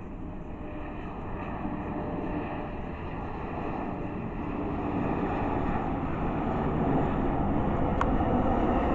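Jet airliner on its landing approach: a steady engine roar and rush of air growing gradually louder as the plane comes closer.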